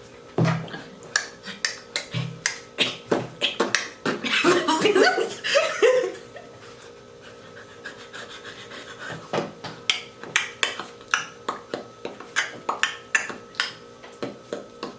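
An irregular series of sharp taps or claps, about two or three a second, with a brief stretch of voice in the middle.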